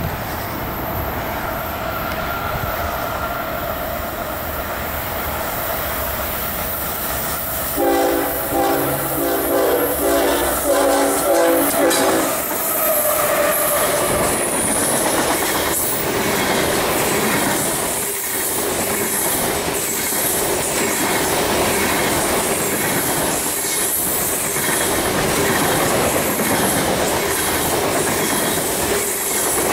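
A freight train approaching and passing. Its diesel locomotive's multi-tone horn sounds a rapid series of short blasts for about four seconds, starting about eight seconds in. The locomotive and a long string of hopper cars then roll by with a steady clickety-clack of wheels over the rail joints.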